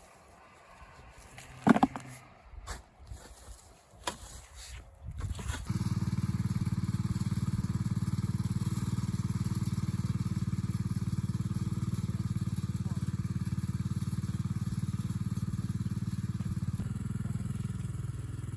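A few knocks and clicks, then an engine starts suddenly about six seconds in and runs steadily with a fast low pulse, easing off slightly near the end.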